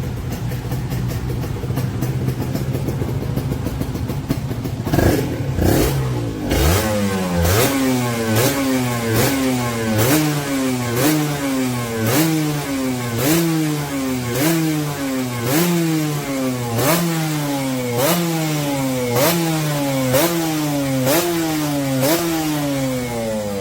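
Honda NSR150SP single-cylinder two-stroke motorcycle running through its exhaust. It idles steadily at first, then the throttle is blipped again and again, about once a second. Each time the revs climb and fall back, with a sharp crack at every blip.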